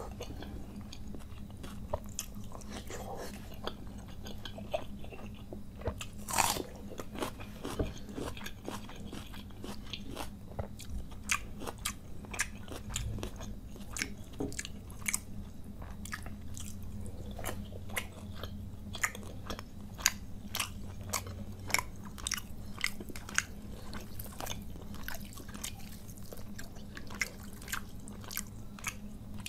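Close-up chewing with the mouth closed, with many sharp crunches that come thicker and faster from about a third of the way in. A faint steady low hum runs underneath.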